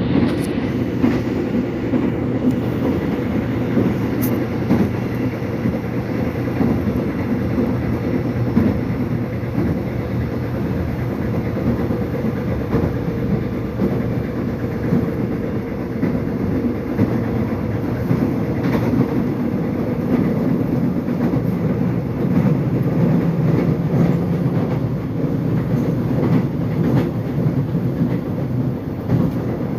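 Korean subway train running: a steady rumble with occasional clicks and clacks of the wheels on the track.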